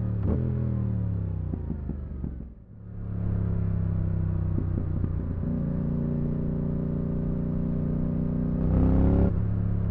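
2022 Yamaha R7's CP2 parallel-twin engine through an IXIL Dual Hyperlow exhaust with the dB killer fitted. The revs fall for the first couple of seconds and the sound drops away briefly. It then runs steadily, with a short louder burst of throttle near the end.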